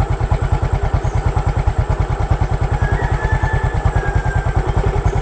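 Small motorcycle engine idling, a steady, even pulsing.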